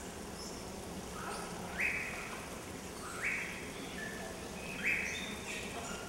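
Birds calling: three loud, short calls about a second and a half apart, with many faint high chirps from other birds throughout.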